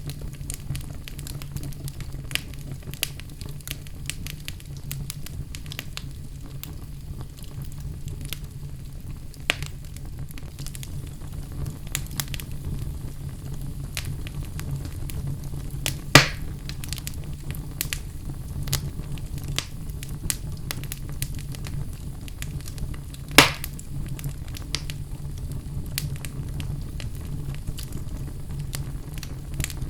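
Wood fire burning in a fireplace: a steady low rumble of flames with frequent small crackles, and two louder pops, one about halfway through and one some seven seconds later.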